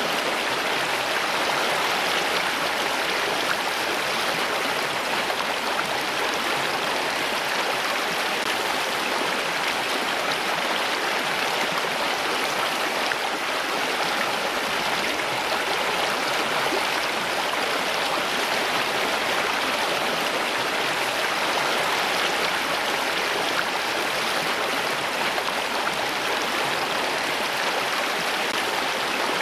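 Running water: a steady, unbroken rush like a flowing stream, even in level throughout.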